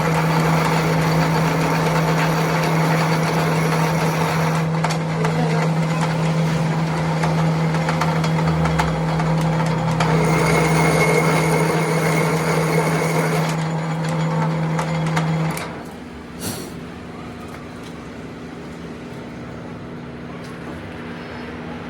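A workshop machine's motor running with a steady hum and mechanical noise, switched off about fifteen seconds in, followed by a single click.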